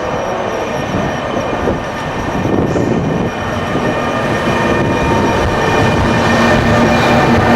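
E402B electric locomotive hauling a passenger train out of the station, a steady electric whine of several held tones over the rumble of the wheels, growing gradually louder.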